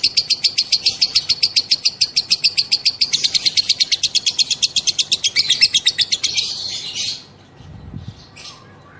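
Female lovebird's 'ngekek': a long, rapid, evenly pulsed high-pitched chattering trill that quickens a little about three seconds in and breaks off around seven seconds, followed by a couple of short, fainter chirps.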